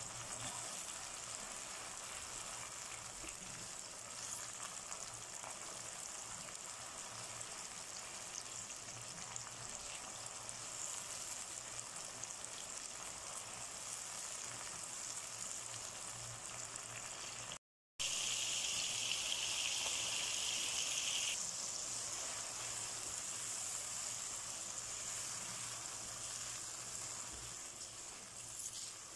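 Sliced onions sizzling as they fry in hot oil in a nonstick wok, turning golden. The sound cuts out for a moment about two-thirds of the way through and comes back louder for a few seconds.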